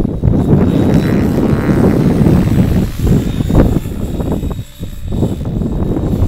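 Align T-Rex 700E electric RC helicopter flying: rotor noise over a heavy low rumble that swells and dips, with a faint higher whine about a second in.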